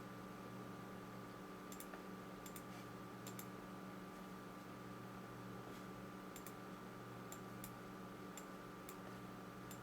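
Scattered single clicks from someone working a computer, about nine at uneven intervals, over a faint steady electrical hum.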